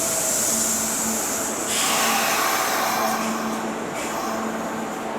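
Kintetsu 30000 series electric train standing at the platform: its onboard equipment hums steadily under a hiss of air. About two seconds in the hiss changes to a lower, louder rush for a second or so, then settles.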